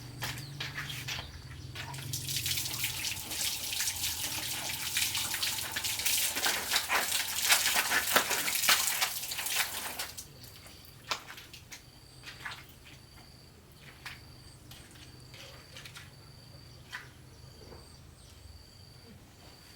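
Water running and splashing for about ten seconds, louder toward the middle, then stopping suddenly. After that, insects chirp in a faint, steady, repeating pattern, with a few small knocks.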